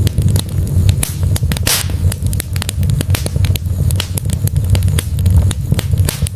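Wood fire burning in a fireplace: logs crackling with frequent irregular sharp pops over a steady low rumble of flames. A brief hiss comes a little under two seconds in.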